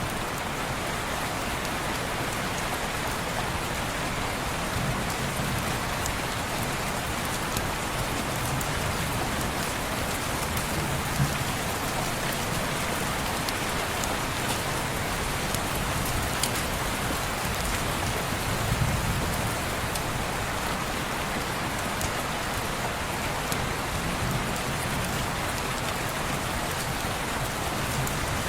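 Steady rain on window glass, mixed with a fireplace: scattered faint crackles and a soft low rumble under the rain.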